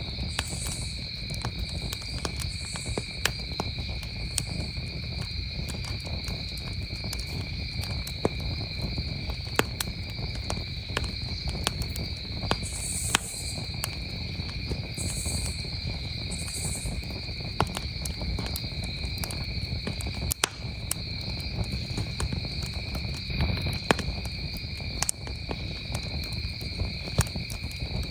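Campfire crackling, with irregular sharp pops and snaps over a steady low rumble, while crickets chirp in a continuous high-pitched chorus behind it.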